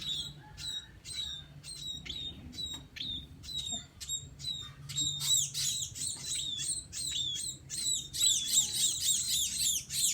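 A flock of munias (emprit) chirping: many short, high, repeated calls, which turn into a dense overlapping chatter from about halfway through.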